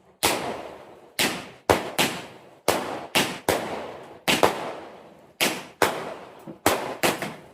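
Fireworks going off: about a dozen sharp bangs at uneven intervals, some in quick pairs, each trailing away over about half a second.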